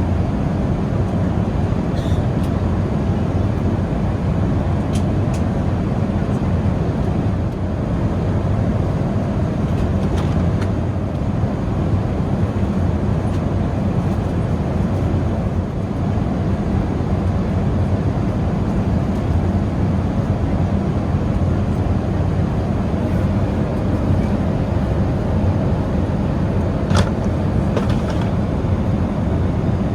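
Steady in-flight cabin noise of an Airbus A380: a constant rumble of engines and airflow, heard from a rear economy window seat, with a few faint light clicks.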